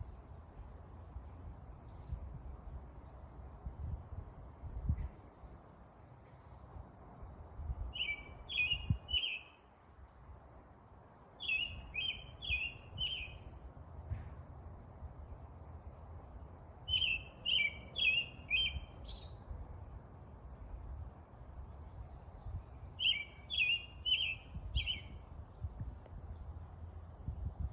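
Songbirds chirping. One bird repeats a thin, high note about once a second, while another sings a short phrase of four or five quick notes about every six seconds. A steady low rumble lies underneath.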